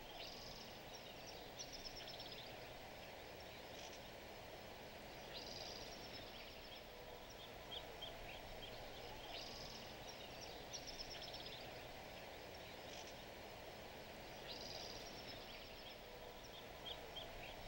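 Faint outdoor ambience with a small bird singing: short runs of high chirping notes every couple of seconds over a low steady hiss.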